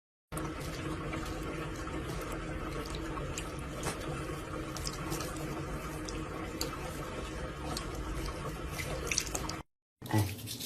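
Steady running water, like a tap running into a sink, with a few faint clicks over it; it cuts off abruptly near the end.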